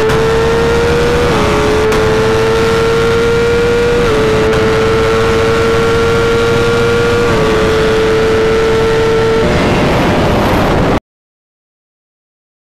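BMW S1000RR inline-four at full throttle, its note climbing steadily through each gear, with quick upshifts a little over a second, about four seconds and about seven seconds in. About nine and a half seconds in the engine note falls away, leaving a rush of wind noise, and the sound cuts to dead silence near the end.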